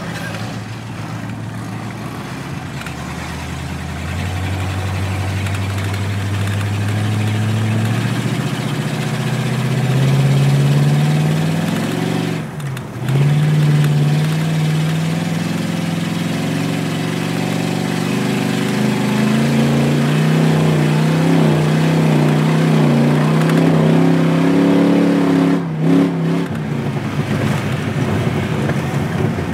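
Race car's engine heard from inside the car, pulling up through the revs as it accelerates on the ice, then holding a steady higher note. The note breaks sharply once partway through, as in a shift or a lift off the throttle, and swells again before dropping away near the end.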